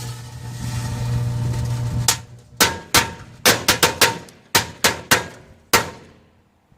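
A running microwave oven hums, then cuts out about two seconds in as firecrackers inside it go off in a ragged series of about a dozen sharp bangs over some four seconds. The microwave has switched itself off.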